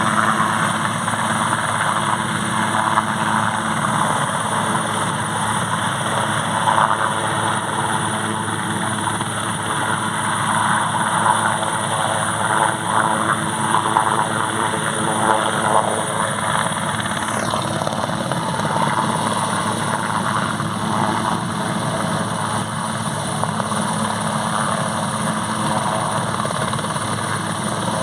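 Airbus AS 532AL Cougar helicopter's twin turbines and rotor running steadily, a continuous mix of rotor noise and turbine whine. A faint falling whine comes about two-thirds of the way through.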